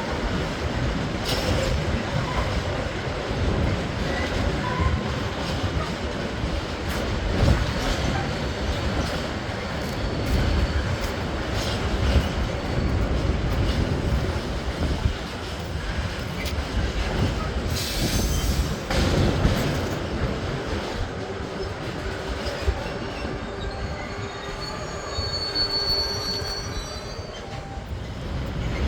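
A train running past on the rails with a steady rumble and occasional knocks from the wheels, and a thin high wheel squeal in the later part.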